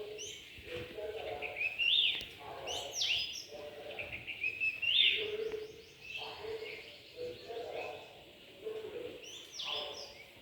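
Birds calling outdoors: repeated high chirps and quick sweeping notes, with lower short notes in between.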